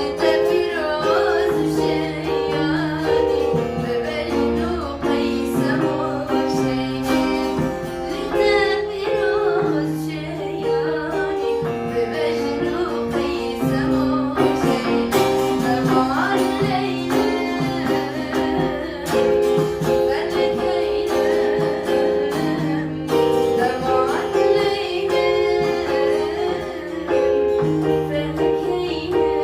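Kurdish song: a solo voice singing a melody over plucked-string accompaniment.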